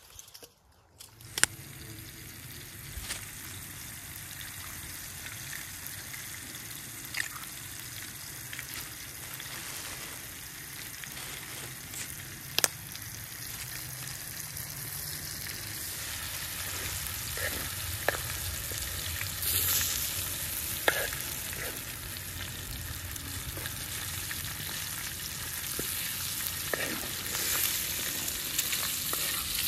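Food frying in a pan over the cooking fire: a steady sizzle that starts about a second in and grows gradually louder, with occasional sharp clicks.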